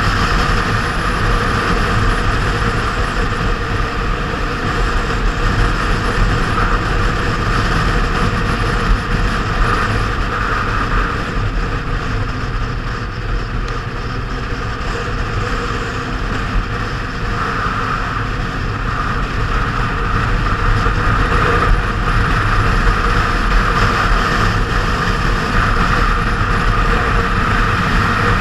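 Kawasaki Z750R motorcycle's inline-four engine running on the move, with steady road and wind noise. The sound eases off somewhat around the middle and builds again toward the end.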